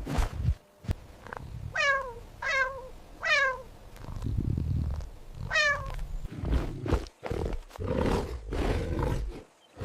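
An animal calling: four short cries that fall in pitch, the last one after a pause, over a low rumbling growl.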